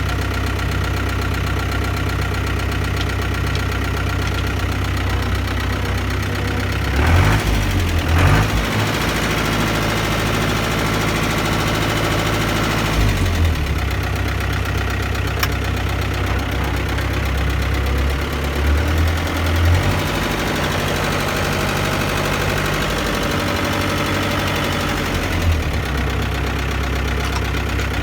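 Kubota M7500 tractor's four-cylinder diesel engine running steadily. The engine note shifts several times as the engine speed changes, with brief louder moments about a quarter of the way in and again around two-thirds through.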